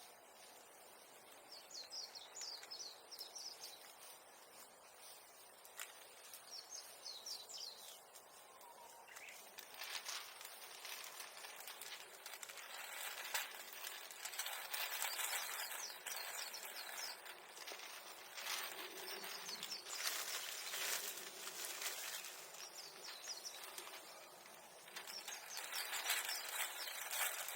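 A small songbird chirps in two short trills of quick falling notes early on. Then, from about ten seconds in, uneven rustling and crackling of dry brush being handled and piled grows louder.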